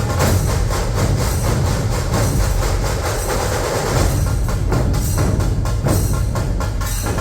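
Dhol-tasha ensemble playing loud and dense: deep dhol drum beats under a fast, unbroken rattle of tasha drums.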